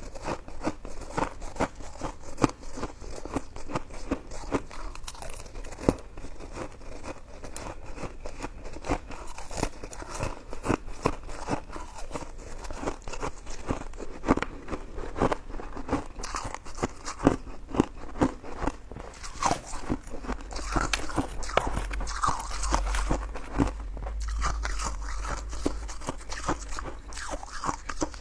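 Close-miked eating sounds of chewy coconut sticky rice cake: steady biting and chewing with a dense run of small wet mouth clicks.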